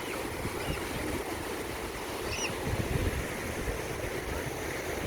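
Sea waves washing on the beach in a steady rush, with wind buffeting the microphone in an irregular low rumble.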